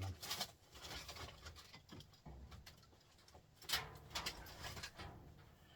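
Hand tools working at a small printer motor to break it open: irregular scraping and clicks of metal, with a sharper click a little under four seconds in.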